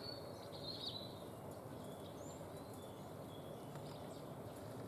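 Faint calls of small songbirds: several short, high chirps and whistles, the clearest about a second in, over a steady outdoor background hiss.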